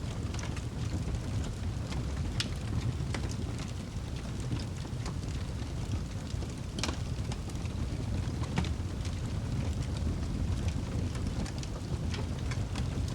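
Wood fire burning in a fireplace: a steady low roar of the flames with irregular sharp crackles and pops scattered throughout.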